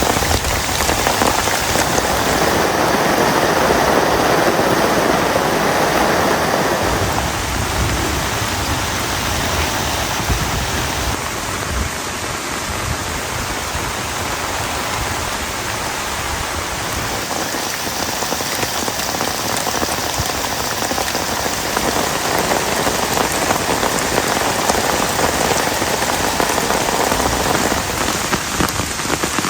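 Heavy rain falling steadily as a dense patter of drops, fuller for the first several seconds and swelling again near the end.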